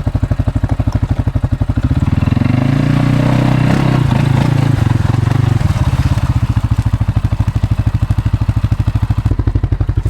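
CFMOTO CFORCE 600 ATV's single-cylinder engine running, revved up for a few seconds from about two seconds in, then settling back to a steady pace.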